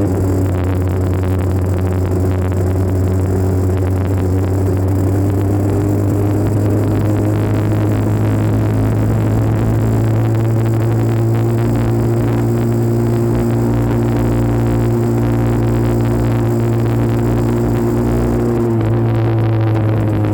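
1984 Honda CR80R's small two-stroke single-cylinder engine running, heard through a phone mounted on the handlebars. Its pitch holds fairly steady with gentle rises and falls and dips briefly near the end.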